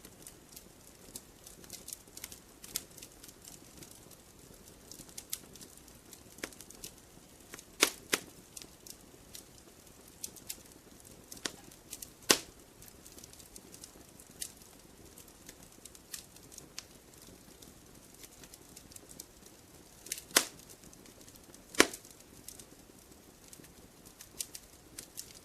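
Wood campfire crackling: a steady scatter of small sharp crackles over a low hiss, with four louder pops at about eight, twelve, twenty and twenty-two seconds in.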